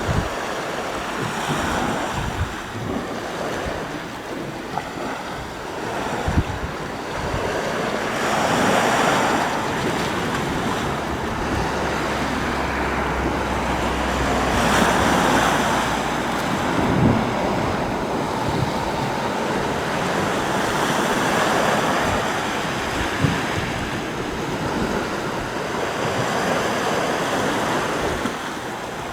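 Sea waves washing onto the shore, the surf swelling and easing about every six seconds. Wind buffets the microphone with low thumps.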